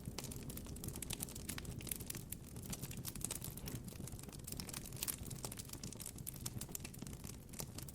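Campfire crackling: dense, irregular pops and snaps over a low, steady rumble.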